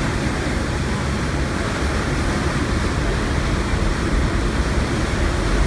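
The SS Badger's steam engines running full astern: a steady, deep rumble with the churning of propeller wash.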